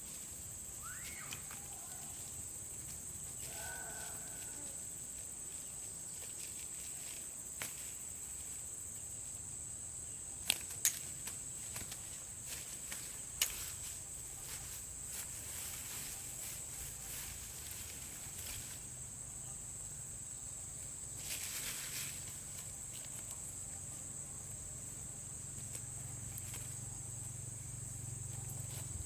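Steady high-pitched trilling of an insect chorus, with a few sharp clicks near the middle and a brief rustle later on.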